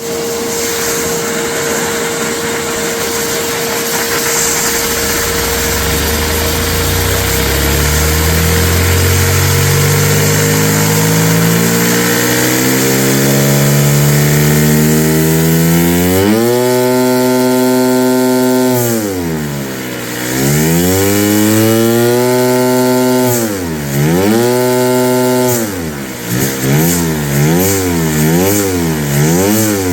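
Small vacuum-powered Lego piston engine, run on a vacuum cleaner's suction, speeding up from slow to a high steady hum over about ten seconds against the hiss of the suction. Its pitch then sags and recovers twice, and near the end it wavers rapidly up and down as the engine surges.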